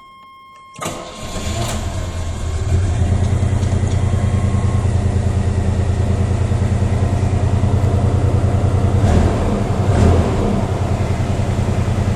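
Chevy S10 pickup engine starting about a second in and settling into a steady, evenly pulsing idle, with its crossed spark plug wires put back in order.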